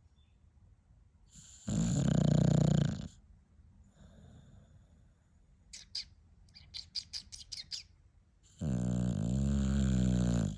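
Bulldog breathing with loud snores while awake: two long rasping snores a few seconds apart, and between them a quick run of short snuffles.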